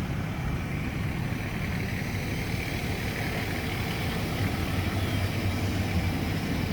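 Fire engine idling steadily: a continuous low engine rumble with an even hiss over it.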